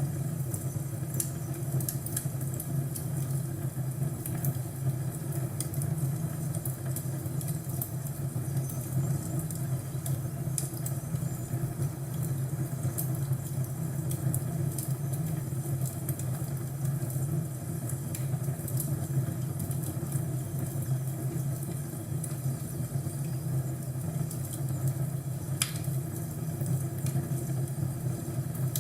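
Crackling wood fire: a steady low rumble with scattered sharp pops and crackles throughout.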